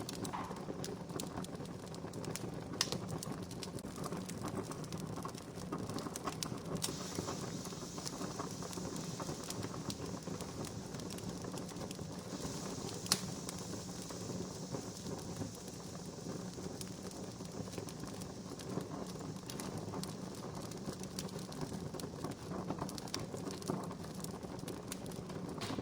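Wood campfire crackling steadily, with many small snaps and two louder pops about three and thirteen seconds in, and a soft hiss through the middle.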